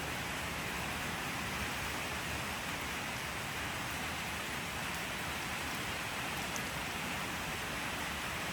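Steady rain falling, an even continuous hiss of drops with no distinct patter or change.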